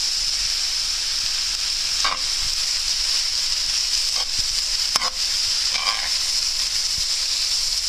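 Carrot, beetroot and onion sizzling steadily in oil in a frying pan, with a few short scrapes and knocks of a utensil stirring them.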